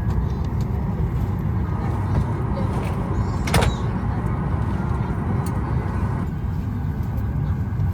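Steady low rumble of a Boeing 737 MAX 8 cabin's air-conditioning while parked at the gate with engines not yet running, with one brief sharp rustle or click about three and a half seconds in.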